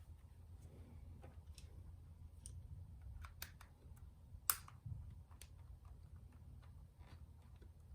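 Scattered light clicks and taps, with one sharper click about four and a half seconds in, over a faint low hum: small tools and plastic parts being handled while a Nintendo Switch is taken apart.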